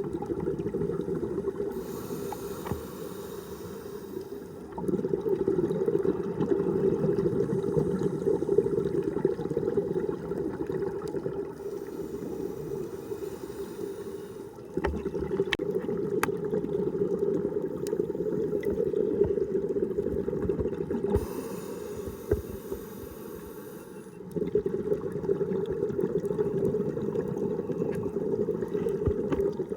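Scuba diver breathing through a regulator underwater: a short hissing inhale, then a long bubbling exhale. This happens three times, with the inhales about two, twelve and twenty-one seconds in.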